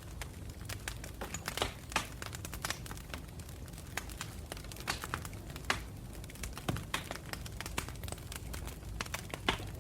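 Campfire burning, wood crackling with irregular sharp pops over a low steady rumble of the flames.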